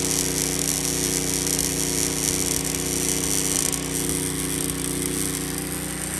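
Steady machine hum: a buzzing drone of several even tones with a high hiss over it.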